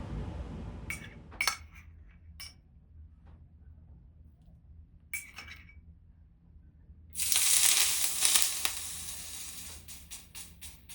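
A few light clinks of dishes or glassware, then a sudden hissing rush about seven seconds in that fades away over a few seconds, with small ticks through it.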